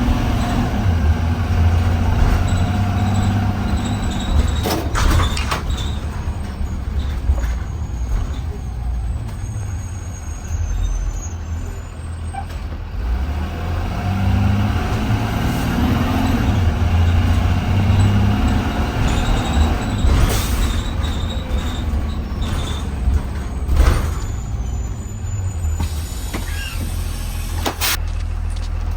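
2020 Blue Bird Vision school bus engine running with a steady low rumble. Short air-brake hisses cut in a few times, at about 5, 20, 24 and 28 seconds in.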